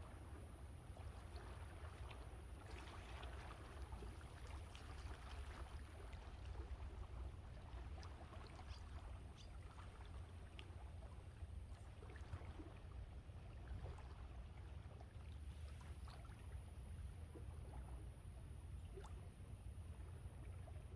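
Quiet sea waves washing on the shore, the water trickling and crackling with many small irregular pops, over a steady low rumble of wind on the microphone.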